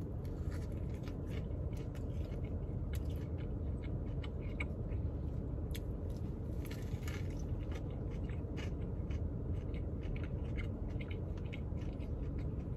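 A man biting into and chewing a breaded chicken biscuit sandwich: scattered short mouth clicks and soft crunches of chewing over a steady low rumble.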